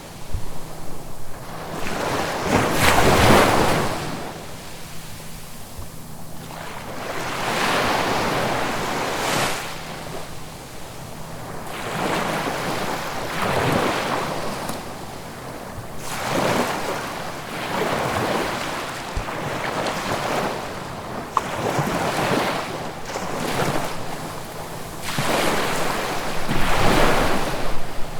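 Ocean waves breaking and washing in over and over, each a swelling rush of surf that rises and falls every few seconds, with the loudest break about three seconds in and more near the end. Some wind sounds against the microphone.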